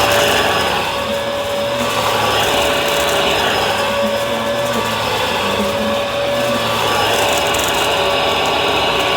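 Bissell vacuum cleaner running steadily: a continuous motor whine over the rush of air, swelling and easing a little every second or so.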